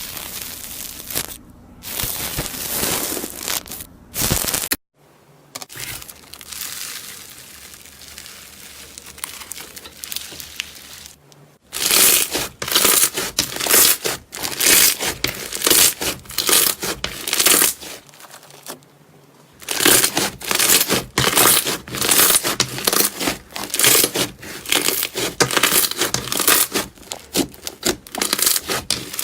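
Slime being squeezed, pressed and pulled by hand, giving a run of wet crackling and tearing noises. The sound drops off suddenly about five seconds in, stays faint, then comes back loudly near the middle.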